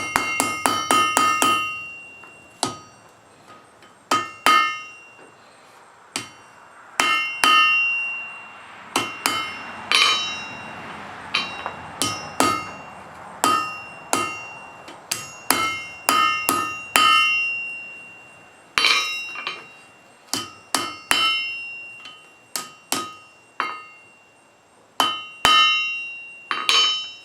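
Blacksmith's hand hammer striking hot wrought iron on an anvil, drawing out a latch lever. A quick run of blows comes first, then blows in twos and threes with short pauses, each one ringing off the anvil.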